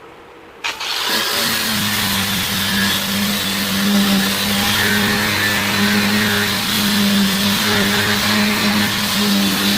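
An electric power tool switches on a little under a second in and runs steadily, with a constant high motor hum under a loud hiss.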